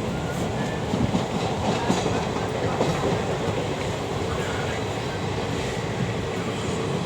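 Passenger train running along the track: a steady rumble of wheels on rails, with a few clacks over rail joints in the first few seconds.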